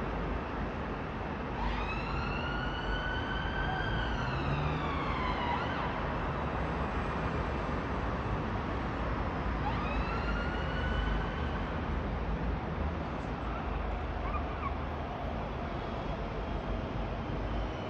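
A distant siren wails twice, rising, holding and falling away, over steady outdoor traffic and wind rumble.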